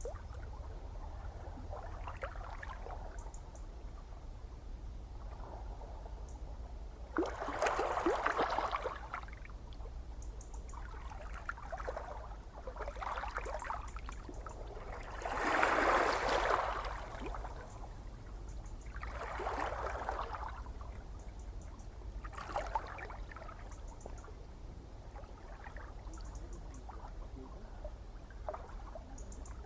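Gentle ocean waves washing in, each one swelling and fading over a second or two, every few seconds, over a steady low rumble of the sea. The biggest washes come about eight and sixteen seconds in.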